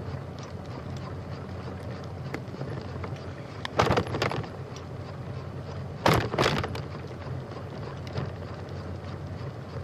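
Bicycle ride with steady wind and rolling rumble, broken twice by a short cluster of sharp knocks, about four seconds in and again about six seconds in.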